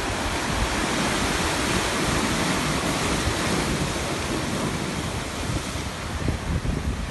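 Sea surf washing onto the shore in a continuous rush that swells and eases, with wind buffeting the microphone in low rumbles.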